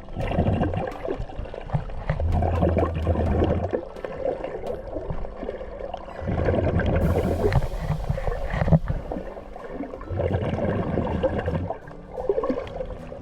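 Muffled water sloshing and gurgling as heard by an underwater camera, swelling and fading in surges every few seconds.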